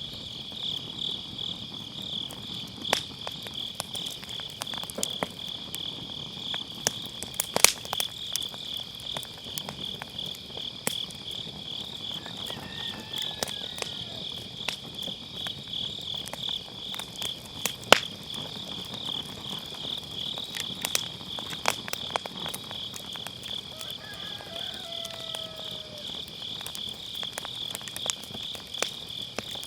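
Crickets chirping in a steady, fast-pulsing chorus, with firewood crackling and popping in a fire pit; two sharp pops stand out, one about a quarter of the way in and one past the middle.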